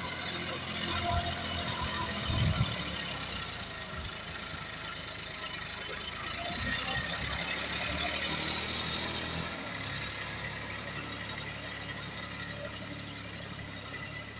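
Massey Ferguson 7250 DI tractor's three-cylinder diesel engine running steadily at low revs, with a single thump about two and a half seconds in.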